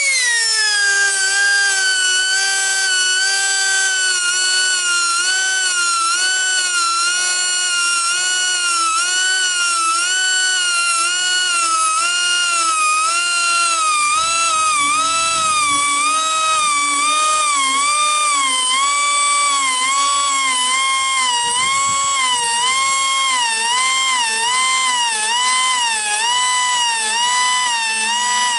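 Pneumatic air grinder whining at high pitch as it sharpens the teeth of a sawmill bandsaw blade. The pitch settles down from higher in the first second, then dips and recovers in a steady rhythm, roughly once a second and a little faster near the end, as the tool is worked along the blade.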